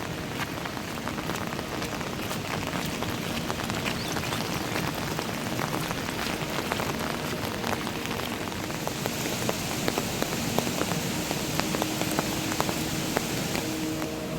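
Heavy monsoon rain falling, a steady hiss with many separate drop hits close by; the hiss turns brighter about nine seconds in and eases near the end.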